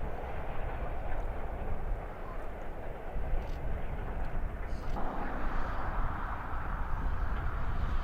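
A heritage railway train running past with a steady rolling rumble, which grows brighter and louder about five seconds in.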